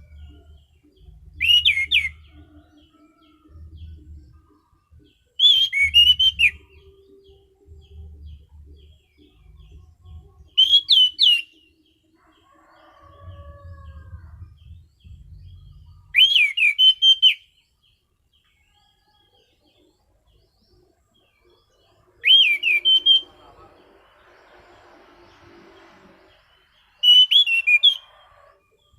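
An Anis Cendana (orange-banded thrush) sings short, loud phrases of sharp, swooping whistled notes, one phrase every four to six seconds, six in all. Faint low thumps run beneath the first half.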